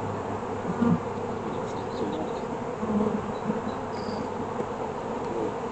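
Honeybees buzzing steadily around an opened hive, with brief louder swells about a second in and again around three seconds.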